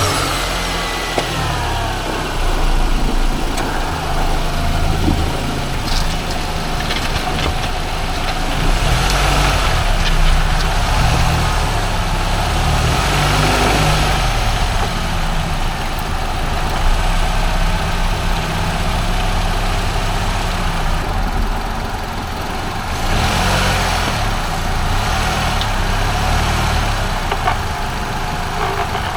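Nissan X-Trail T31 running, with a strange noise that the owner suspects comes from the propeller shaft. The sound is steady and swells and eases at times, and a faint tone falls in pitch over the first few seconds.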